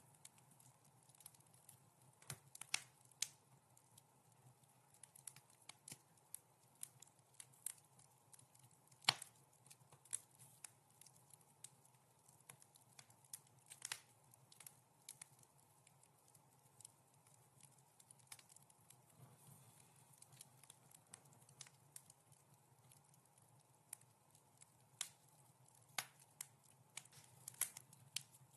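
Wood fire crackling in a fireplace: irregular sharp pops and snaps, the loudest about nine seconds in, over a faint steady background.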